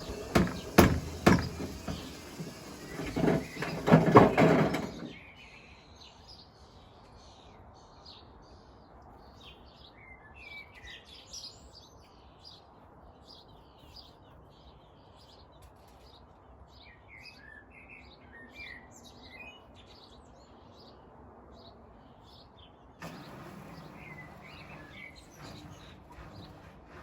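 Hotpoint washing machine with bricks in its drum banging and slamming hard during the final spin, then it stops suddenly about five seconds in. Birds chirp through the quiet that follows, and near the end a low steady hum starts up.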